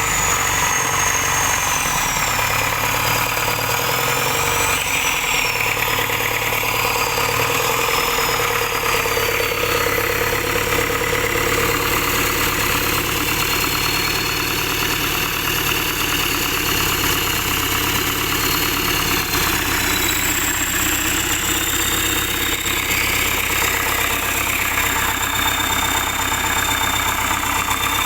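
Isuzu dump truck's diesel engine running. Its speed rises and falls a few times over the first several seconds, then it idles steadily.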